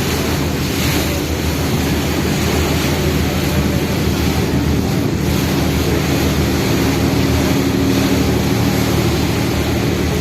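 Passenger ferry's engine droning steadily, with a wash of water and wind noise over it.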